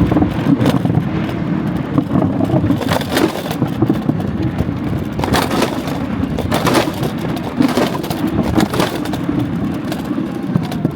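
Scooter riding over a rough, bumpy path: a steady motor drone with rattles and knocks as it goes over the bumps.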